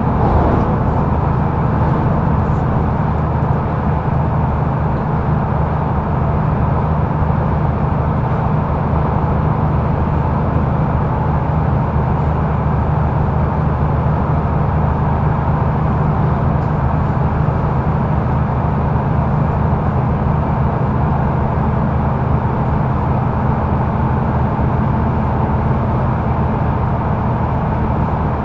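Mercedes-Benz O530 Citaro facelift intercity bus heard from inside the cabin, cruising at a steady speed: a steady low engine drone with road and tyre noise, no gear changes or revving.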